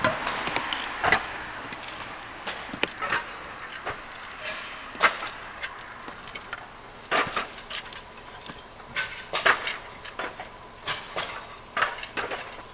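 Irregular sharp knocks and clacks of hard objects striking, as in work on a tiled roof; the loudest comes about five seconds in.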